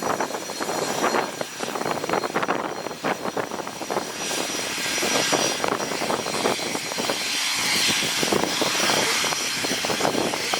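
Airbus A320-family jet airliner engines running loud, a broad rushing noise with a steady high whine, rough and crackling in the first few seconds.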